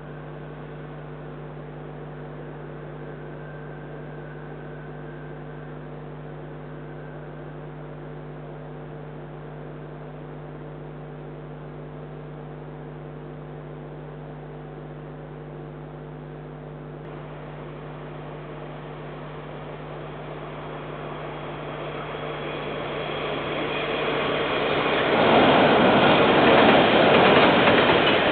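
A steady low electrical hum gives way to a KiwiRail freight train approaching. Its rumble and rattling wheel noise grow louder over the last several seconds as it reaches the bridge.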